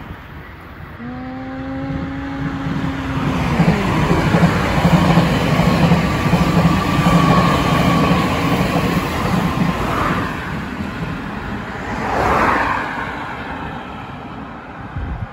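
An electric limited express train sounds its horn about a second in: one steady blast of some two and a half seconds that drops in pitch as it ends. The train then passes close by, its wheels rumbling and rattling over the rails with a faint whine, loudest in the middle. Near the end a car passes by on the road.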